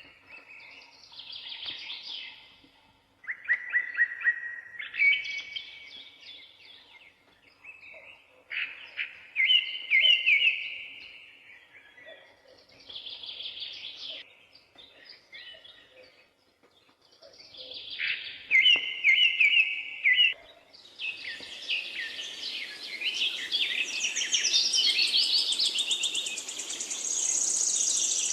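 Songbirds singing: short, quickly repeated trilled phrases come every few seconds with pauses between them. Near the end several birds sing at once in a denser chorus over a steady hiss.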